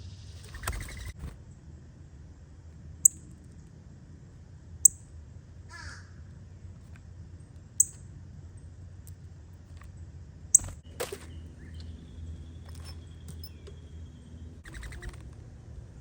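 Wild birds calling at a backyard feeder: four short, sharp, high chip notes a few seconds apart, with a couple of rougher, lower calls near the start and end.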